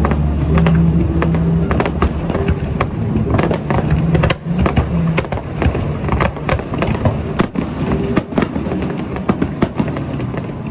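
Fireworks display: a rapid, irregular run of bangs and crackling bursts, thickest in the middle of the stretch.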